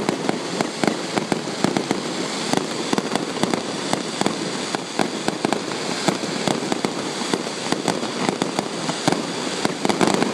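Fireworks going off overhead in a dense, unbroken barrage of sharp bangs and crackling.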